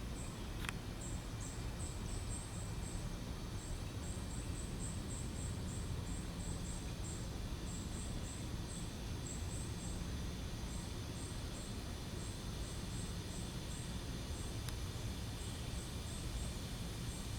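An insect chirping in short, high-pitched pulses, a few a second in irregular runs, over a steady low background rumble.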